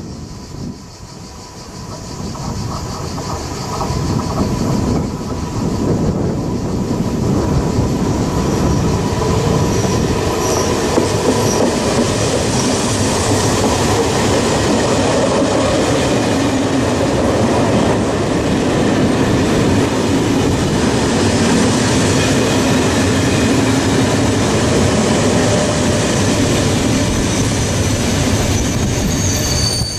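SNCF TER passenger train of Corail coaches hauled by a BB 22200 electric locomotive, growing louder over the first few seconds as it approaches, then a loud, steady rumble and clatter of wheels on rail as the coaches pass close by. A high wheel squeal sets in at the very end.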